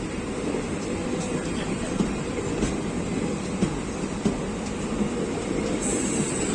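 A passenger train running past with a steady rumble, its wheels clacking over rail joints about one to two times a second. A high thin whine comes in near the end.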